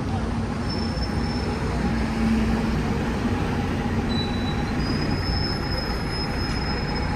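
Metal rail wheels squealing against track, high thin squeals coming and going over a steady low rumble: one about a second in, a short one near four seconds, and a longer one through the last couple of seconds.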